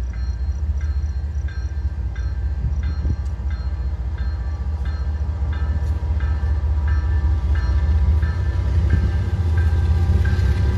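Union Pacific freight train's diesel locomotives approaching, a deep steady rumble that grows louder toward the end. Over it a railroad crossing bell dings a couple of times a second.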